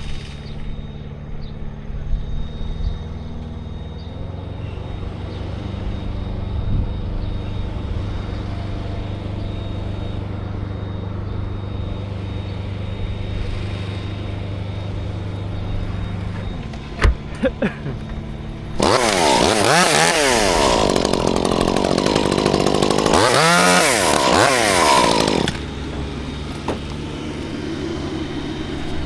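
An engine runs steadily. Then, about two-thirds of the way in, a chainsaw revs and cuts for about six seconds, loudest of all, before it stops and the engine is heard alone again.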